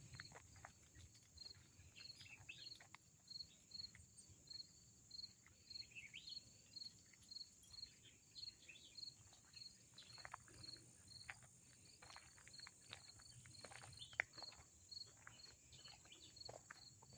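Faint insect chorus: a steady high-pitched hiss with a cricket-like chirp repeating about two to three times a second. Soft, irregular steps and rustles come through underneath.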